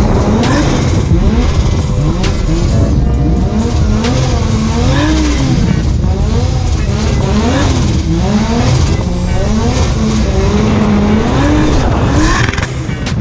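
Drift car engine revving up and down over and over, about once a second, with tyre squeal, as the car is drifted.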